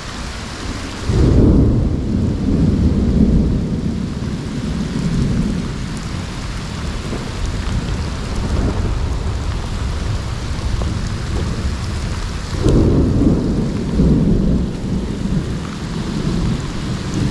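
Heavy rain pouring steadily, with two long, low rumbles of thunder: one starting about a second in and another about two-thirds of the way through.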